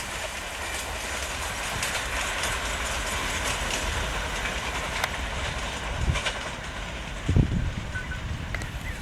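Diesel-hauled passenger train running past at speed: a steady rumble of wheels on track with rail-joint clicks, the high end thinning out after about five seconds as it draws away. A brief low thump about seven seconds in.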